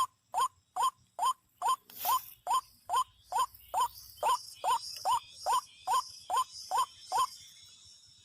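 White-breasted waterhen (ruak-ruak) calling: a fast run of short, upward-sweeping notes, about two to three a second, stopping about seven seconds in. Faint insects buzz underneath.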